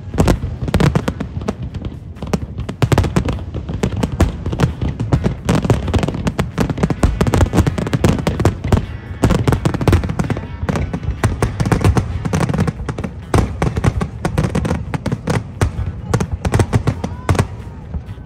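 Aerial fireworks exploding in a dense, continuous barrage of bangs and crackles, with no break in the firing.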